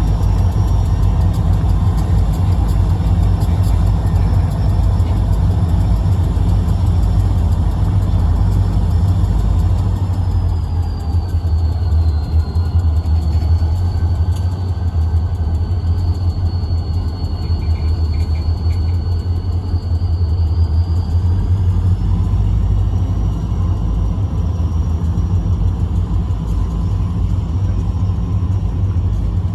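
Diesel locomotives of a freight train running with a steady, loud low rumble. A faint high whine comes in about ten seconds in and fades out about twenty-two seconds in.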